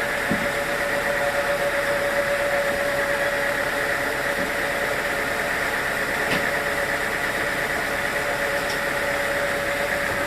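Sawmill machinery running steadily with an even hum and a constant tone, no change in load.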